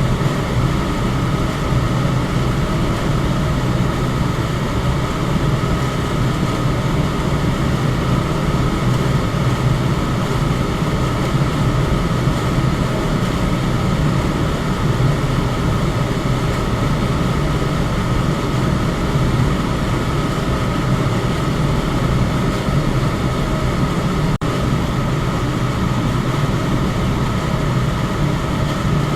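Electric fan running steadily: an even rush of air with a low hum. The sound dips for a moment about 24 seconds in.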